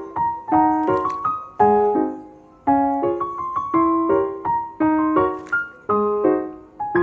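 Background piano music: a light, bouncy melody of struck notes over simple chords, each note fading after it is played.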